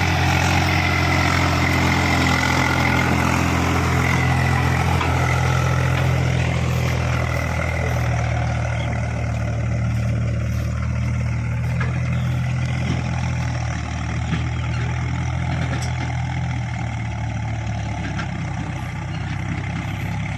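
Tractor diesel engine running steadily, somewhat quieter in the second half.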